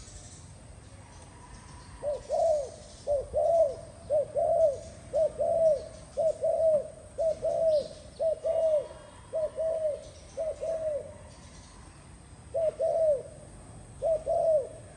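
Spotted dove cooing: a long run of short, quick coo notes, then a pause and two more coo phrases near the end.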